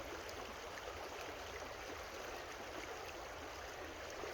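Creek water running over rocks, a steady rushing and babbling.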